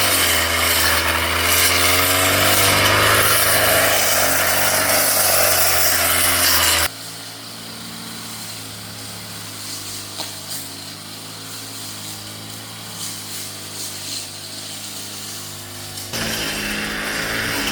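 Brush cutter engine running at a steady high speed. About seven seconds in the sound drops abruptly to a much quieter steady hum with a few light ticks, then comes back loud near the end.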